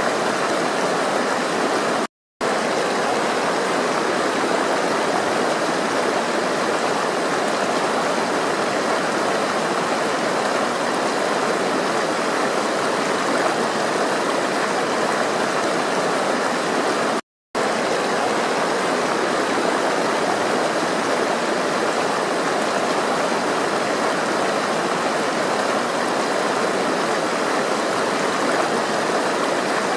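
Flowing water rushing steadily, like a stream, with no pitch or rhythm. The sound cuts out completely for a split second twice: about two seconds in and about seventeen seconds in.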